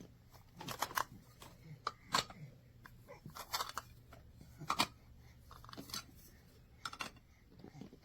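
Hard plastic stacking cups being handled, giving irregular light clicks and clacks, a small cluster about every second.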